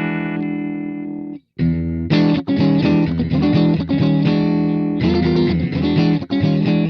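Electric guitar played through a Velouria FX Witchcraft distortion/preamp pedal. A distorted chord rings and fades, is cut off about a second and a half in, then a riff of repeated chord strokes follows.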